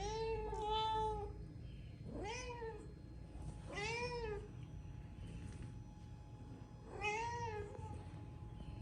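A domestic cat meowing: a drawn-out double meow at the start, then single meows about two, four and seven seconds in, each rising and falling in pitch.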